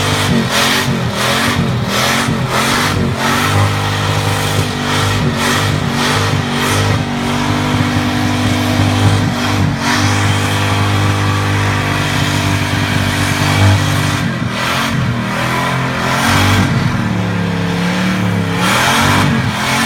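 Muscle car engine running loudly and revved repeatedly. The revs rise and fall in quick blips over the first several seconds and again near the end, with a steadier stretch in between.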